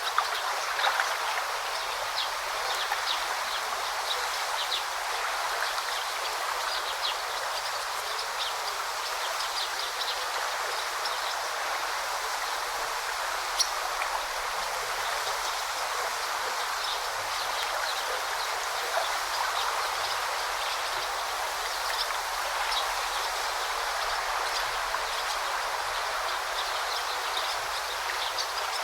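Forest stream babbling steadily, with scattered short bird chirps above the water.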